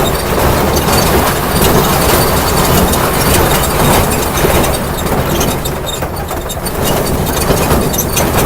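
Ride-on train running along its track, heard from aboard: a steady rumble with frequent small clicks and rattles.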